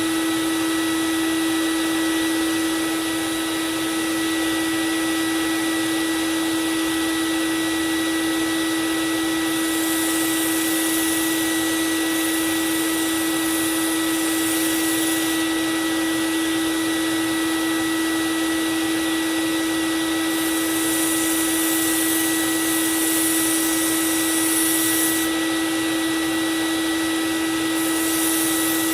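Belt sander running steadily with a constant motor whine as a knife blade is ground on the belt. Three stretches of higher hissing grind, each a few seconds long, come as the blade is pressed to the belt.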